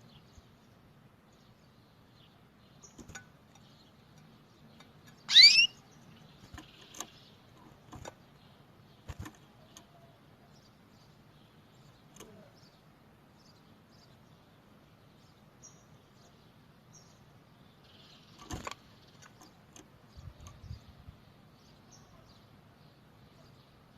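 Canary giving one loud call that sweeps quickly up in pitch about five seconds in, with otherwise only sparse faint chirps and small clicks over a faint low hum.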